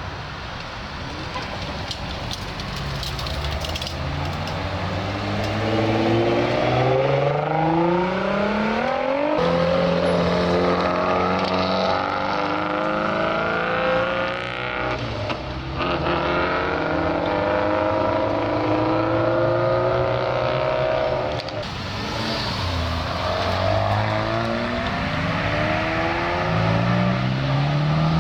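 Modified cars' engines revving and accelerating, the engine note climbing in pitch several times and dropping back in between.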